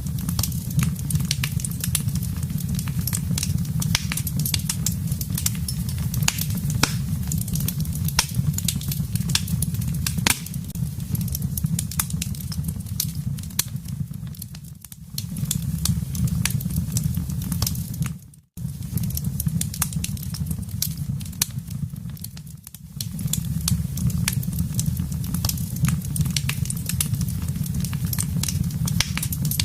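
Wood fire crackling in a fireplace: a dense run of sharp pops and snaps over a steady low rumble. It briefly drops out to silence a little past halfway through, with two softer dips around that point.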